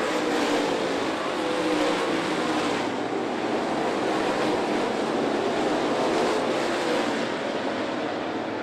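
Dirt late model race cars' V8 engines running hard around the track as the pack circles, a steady engine drone whose pitched note is clearest in the first few seconds.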